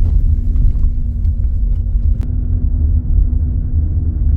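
Road and engine noise inside the cabin of a moving car, a Dacia Jogger: a heavy, steady low rumble with a constant drone.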